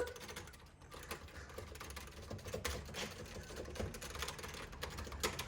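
Game buttons and joystick clicking rapidly and irregularly: button-mashing during a fighting-game bout.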